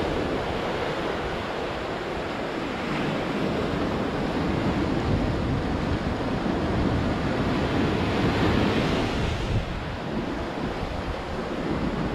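Sea waves breaking and washing up on the shore in a continuous surf that swells louder in the middle and eases about ten seconds in.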